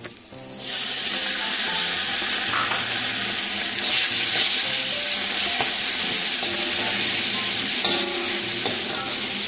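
Chopped tomatoes frying in hot spiced oil in an iron wok, with a metal spatula stirring them through the masala. The sizzling starts suddenly about a second in and stays loud and steady.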